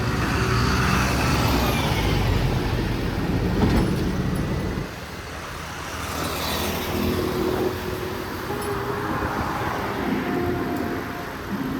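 Road traffic noise from cars and other motor vehicles in a city street, with a heavy low rumble that drops off sharply about five seconds in.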